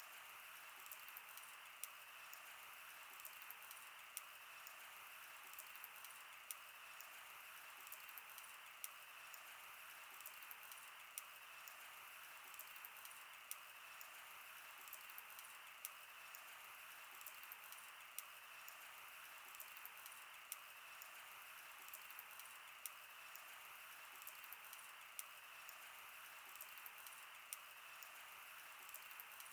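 Wood fire burning, with frequent small irregular crackles and pops over a soft, steady hiss.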